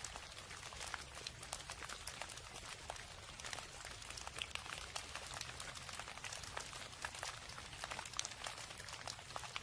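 Steady rain: a dense, irregular patter of many separate drops over a soft hiss, with a low rumble underneath.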